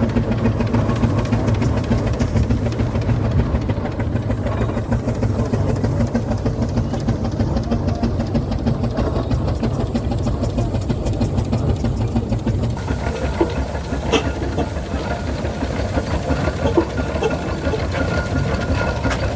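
Steam traction engine running, its engine and hissing steam heard close by; the sound changes character about two-thirds of the way through.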